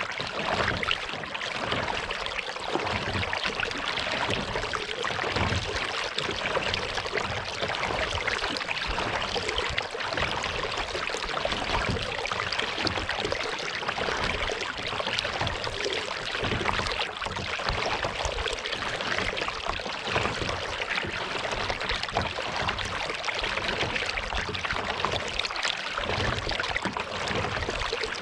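Water trickling and splashing off a kayak paddle and along the hull as the kayak is paddled, a steady watery noise with soft irregular low thumps underneath.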